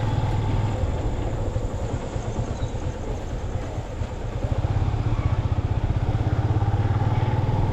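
Motorcycle engine running at low speed with a rapid, even pulse, easing off briefly about two seconds in and picking up again after about four seconds.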